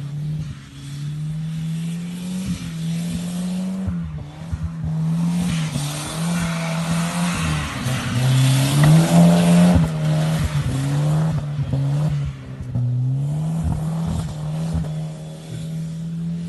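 Volvo 940's B230FT turbocharged 2.3-litre four-cylinder engine being revved hard while the car drifts, its note climbing and dropping again and again. Tyres skid through the middle stretch.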